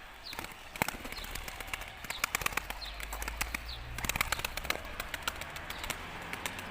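Pigeons in a loft: many sharp clicks and wing flutters, with a short, high, falling chirp about once a second during the first four seconds.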